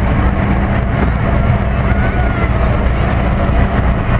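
Tow truck engines running steadily as the trucks pass, a continuous low rumble.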